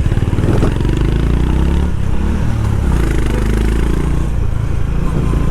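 Honda H'ness CB350's air-cooled single-cylinder engine and exhaust running steadily while the motorcycle cruises at highway speed, heard from the rider's seat.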